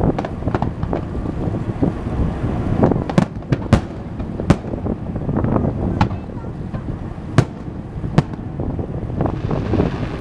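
Aerial fireworks bursting: a string of sharp bangs, the loudest about three to four and a half seconds in and again around seven to eight seconds, with smaller crackles between, over a steady low rumble.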